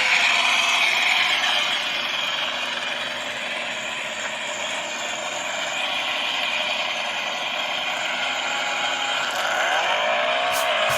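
Car engine running, with the pitch rising in a rev and then holding steady near the end.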